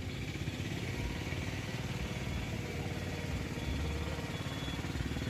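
A vehicle engine running steadily, a low rumble with a fine rapid pulse.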